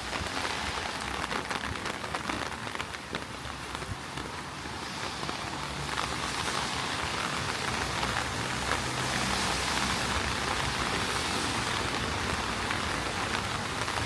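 Heavy rain falling, a dense hiss of drops with many sharp close drop hits; it grows louder about six seconds in, and a low steady hum joins underneath in the second half.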